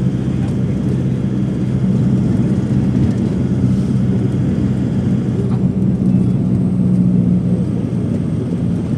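Steady drone of a passenger airliner in flight, heard inside the cabin: engine and airflow noise with a low, even hum.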